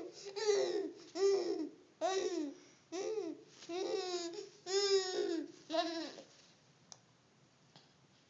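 Baby babbling to herself: a string of about seven short, high-pitched sing-song syllables, each rising and falling in pitch, stopping about six seconds in.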